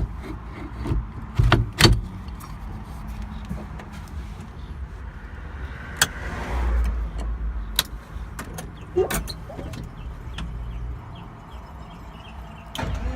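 Motor vehicle's low, steady rumble, with several sharp knocks and clicks scattered through.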